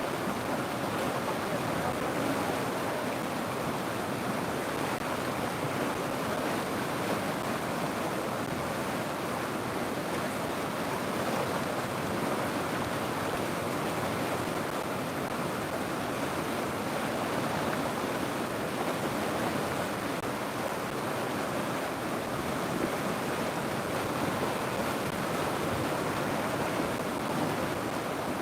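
River water flowing, a steady even rushing with no breaks or changes.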